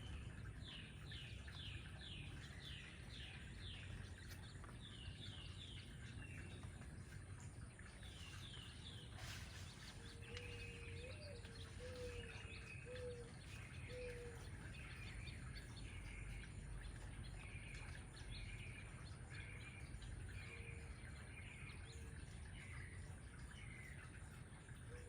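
Several birds singing: quick runs of short down-slurred high notes, with a low, soft cooing of a few notes from about ten seconds in and again near the end, over a steady low background rumble.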